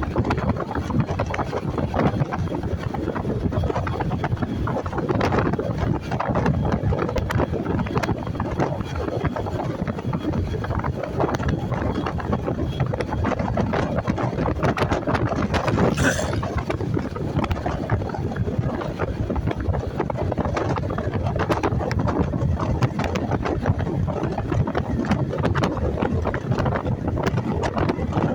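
Wind rushing over the microphone on a moving motorcycle, with engine and road noise underneath, as a steady unbroken noise. A brief sharp sound cuts through about halfway.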